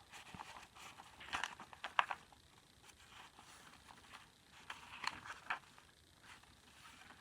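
Paper pages and cards of a handmade junk journal being handled and turned: soft rustles and crinkles, a few louder ones about one and a half, two and five seconds in.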